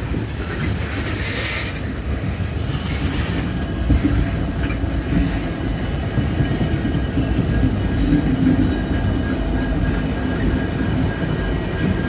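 Loaded coal train rolling past: a steady rumble of freight car wheels on the rails, with a faint steady hum underneath.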